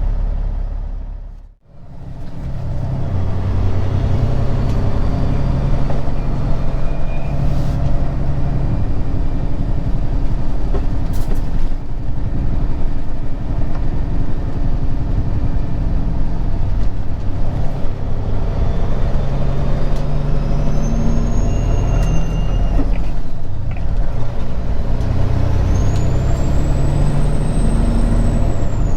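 Semi-truck's diesel engine running under way, with its pitch stepping up and down as it pulls. The sound fades out and back in about a second and a half in. A high whine rises and falls twice in the last ten seconds.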